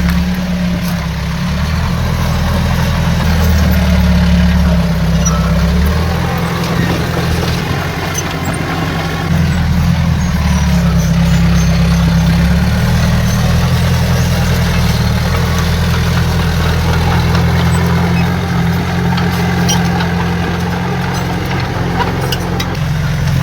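Diesel engine of heavy earthmoving machinery running with a deep, steady drone that grows louder twice and eases back.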